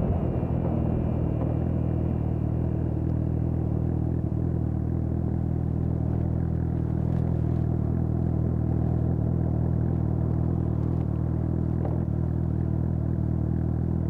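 2020 Suzuki GSX-S750's inline-four engine with an aftermarket Storm exhaust, idling steadily at an even, unchanging low pitch.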